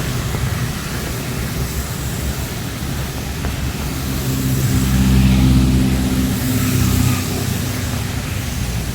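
Steady hiss of heavy rain, with a motor vehicle's engine passing close by: it swells about halfway through, is loudest a second or two later, and falls away near the end.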